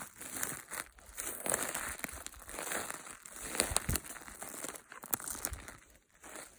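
Close, irregular crinkling and crackling with scattered sharp ticks, like dry natural material being handled, easing off near the end.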